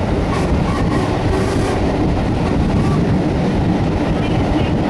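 Steady running rumble of a moving passenger train heard from inside a carriage, wheels rolling on the track.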